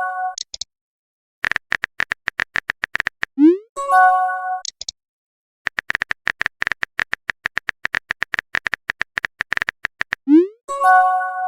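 Chat-app sound effects: runs of rapid typing clicks, each ending in a quick rising swoosh and a short chime, a message-sent notification. The swoosh and chime come three times: at the very start, about four seconds in, and near the end.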